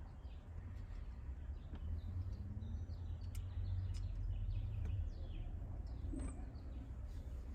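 Birds chirping in the background over a steady low rumble, with a few light clicks.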